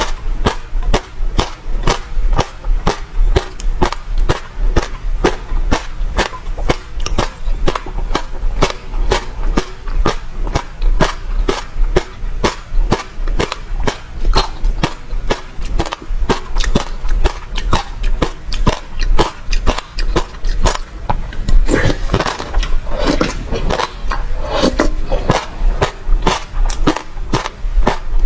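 Close-miked chewing of passion fruit, the crunchy seeds cracking in quick, irregular clicks, with a denser, noisier stretch of mouth sounds about three-quarters of the way in.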